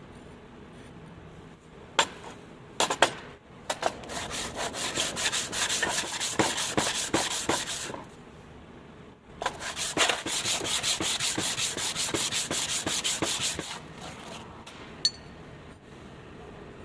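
Fast, even back-and-forth strokes of a hand tool rubbing across a workpiece, shaping a dovetail. They come in two runs of about four seconds each, with a short pause between them. A few sharp knocks come before the first run, and a single click comes near the end.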